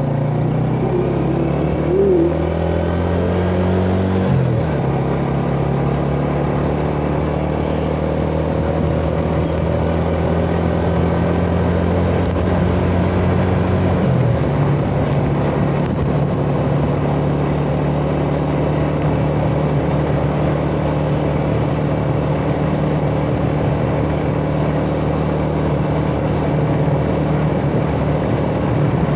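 Yamaha Jupiter Z's single-cylinder four-stroke engine running steadily on the move. Its pitch jumps abruptly twice, about four seconds in and about halfway through, as gears change.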